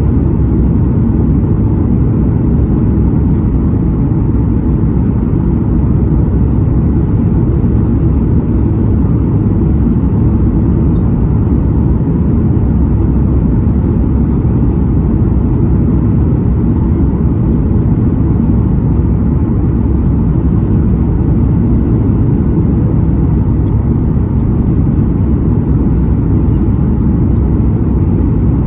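Steady low rumble of airflow and engine noise inside the cabin of a Boeing 737 MAX 9 airliner in flight.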